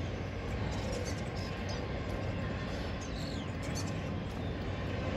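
Steady rumble of a passing train, with faint bird chirps over it.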